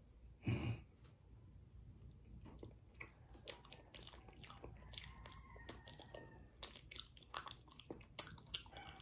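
A person chewing a mouthful of soft ripe banana: faint, irregular wet mouth clicks, after a brief louder sound about half a second in as the bite is taken.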